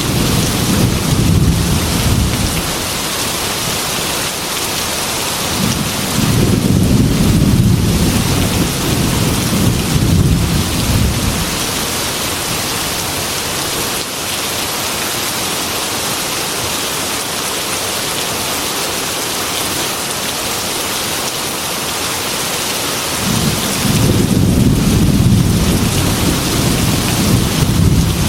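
Heavy rain falling steadily, with thunder rumbling three times: once at the start, again from about six to eleven seconds in, and again near the end.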